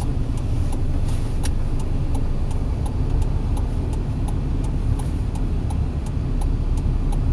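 A car's engine and road rumble heard from inside the cabin while it drives steadily. A regular ticking of about three beats a second runs over it.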